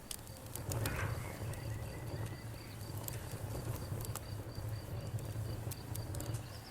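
Bonfire crackling with scattered sharp pops, over crickets chirping in a steady, evenly pulsed trill, with a steady low rumble underneath.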